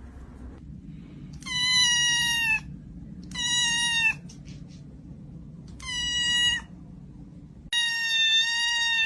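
A cat meowing four times, each meow a drawn-out, even call of about a second that drops slightly in pitch at its end.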